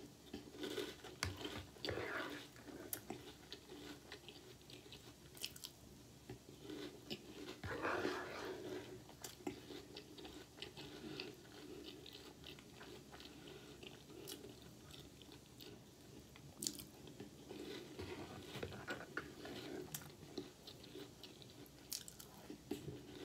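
Faint, close chewing of crunchy breakfast cereal, with irregular small crunches and clicks as a mouthful is bitten and chewed.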